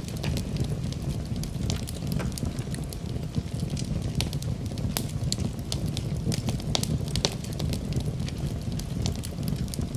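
Wood fire burning in a fireplace: a steady low rumble of flames with frequent sharp, irregular crackles and pops of burning wood.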